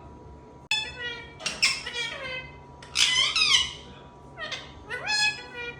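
Indian ringneck parrot making several high-pitched calls in quick succession, the loudest about three seconds in.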